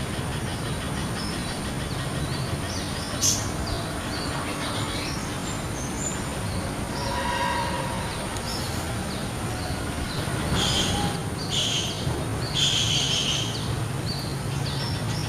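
Spiderhunter (pijantung) and other wild birds chirping, with several louder bursts of calls near the end, over a steady low rumble.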